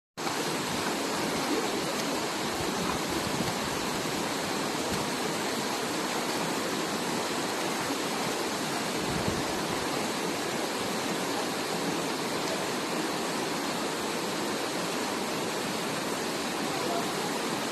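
Mountain stream water rushing steadily, an even hiss that holds at one level throughout.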